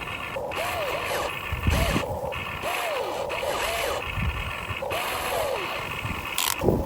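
Huina 1592 RC excavator digging: its small electric gear motors whir, with scraping and a couple of low thuds as the bucket works the soil.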